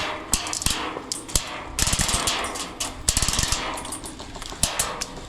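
Airsoft guns firing: sharp, irregular cracks, single and in quick clusters, over rustling movement noise.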